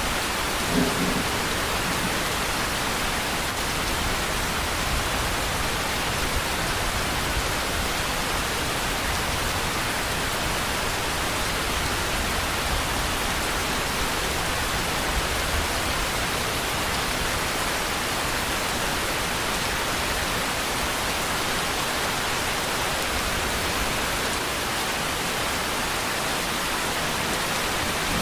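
Steady rain, a dense even hiss, with low thunder rumbling now and then and a brief thump about a second in.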